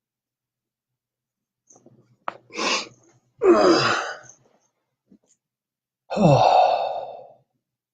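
A man's voice, not speech: a quick breath in, then two heavy groaning sighs a couple of seconds apart, each falling in pitch.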